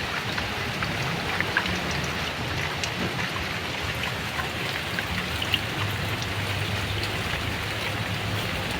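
Heavy rain falling steadily, with separate drops ticking through the downpour and a faint low rumble of distant thunder underneath.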